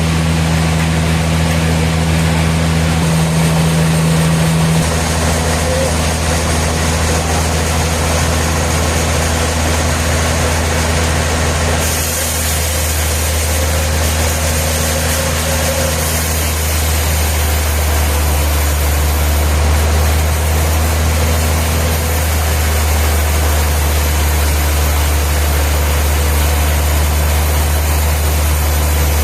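Sawmill machinery running with a steady, loud low engine hum, its tone changing a few times.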